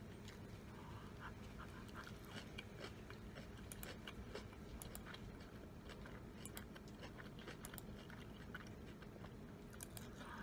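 Person chewing food with mouth closed: faint, irregular small clicks and smacks of the mouth.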